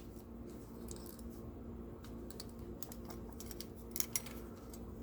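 Light, irregular clicks and taps of a die-cast model car being taken apart by hand, its loosened metal and plastic parts knocking together, with two sharper clicks about four seconds in. A steady low hum sits underneath.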